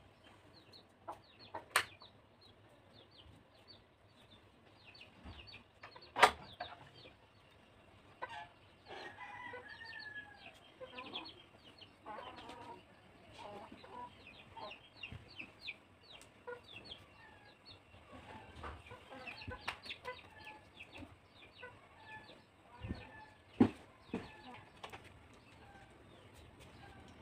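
Faint, repeated short bird calls, with a few sharp knocks; the two loudest knocks come about six seconds in and a few seconds before the end.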